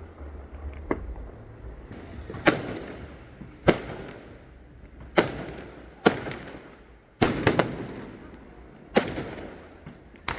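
Fireworks bursting overhead: about ten sharp bangs, usually a second or more apart, with a quick cluster of three about seven seconds in. Each bang is followed by a fading crackle and echo.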